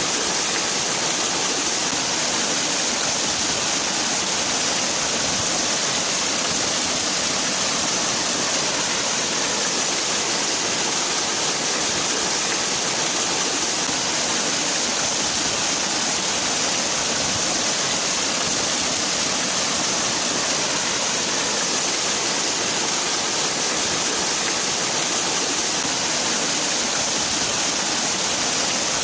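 Waterfall: a steady rush of falling water, even and unchanging, with a bright hiss on top.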